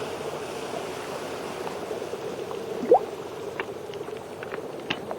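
Steady underwater water noise, bubbling and gurgling, with a few faint clicks and one short rising squeak about three seconds in.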